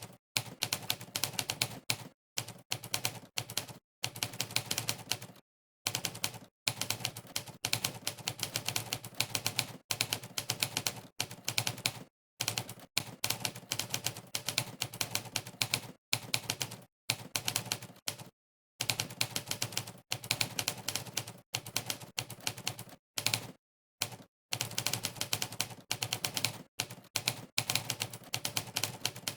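Monkeytype's typewriter keypress sound effect, one sampled typewriter clack per keystroke, in rapid runs of sharp clacks as someone types fast. The runs break off into short spells of dead silence every second or two.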